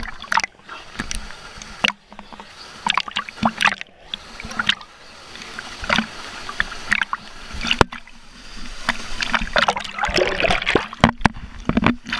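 Water splashing and sloshing in irregular strokes as people swim, over a steady rush of moving water.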